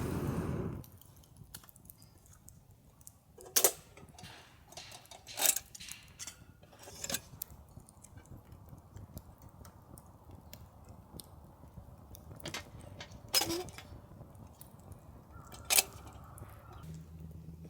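Scattered sharp clicks and clinks of small hard objects being handled, about six spread across the stretch, after a brief rush of noise at the very start.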